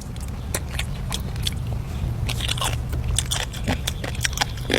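Close-up eating sounds: irregular crisp crunches of someone biting and chewing crunchy food, over a steady low rumble.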